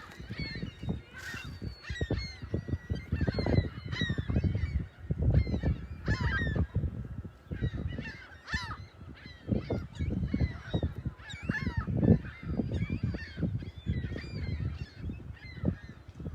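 A flock of gulls calling over and over in many short, overlapping cries, over the low, irregular wash of Lake Michigan waves on the beach.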